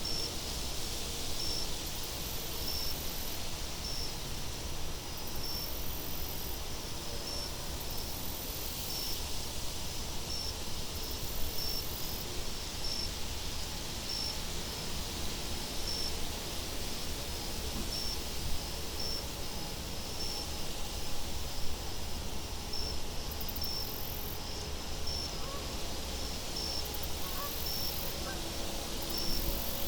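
Field-cricket-style chirping, a short high chirp repeating about once a second, over a steady low wind rumble and a faint high insect hiss.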